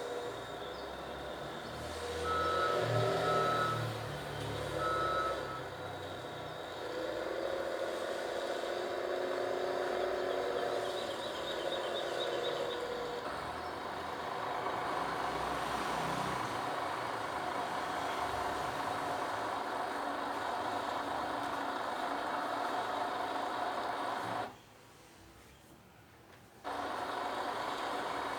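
Heavy vehicle engine running steadily, with a few short reversing-alarm beeps a few seconds in. The sound drops away for about two seconds near the end, then comes back.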